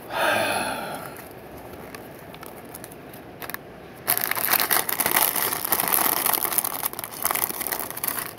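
Faint steady patter of rain, then from about four seconds in loud crinkling and crackling of a plastic Lego parts bag being handled and opened.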